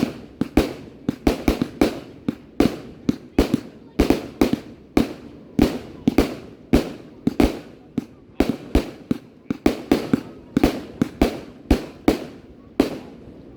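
Fireworks bursting in a rapid, continuous barrage of sharp bangs, about two a second, each trailing off briefly.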